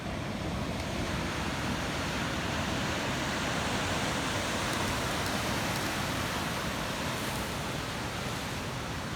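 Ocean surf breaking on the beach, a steady wash of noise that swells a little through the middle and eases near the end.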